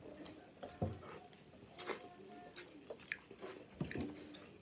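Close-up eating sounds of a person chewing crab meat, with a string of short wet smacks and clicks.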